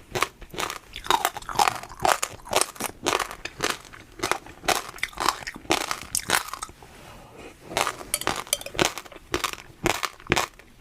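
Close-up chewing of crunchy food: a quick run of sharp crunches, about three to four a second, with a brief lull about seven seconds in.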